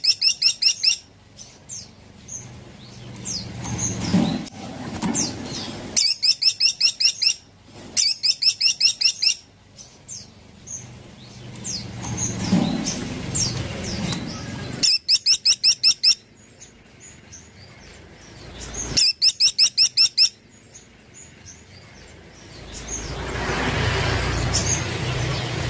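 Small woodpecker (caladi) calling: five fast rattling series of about a dozen sharp high notes, each about a second long, with faint chirps from other birds in between. A rushing noise swells near the end.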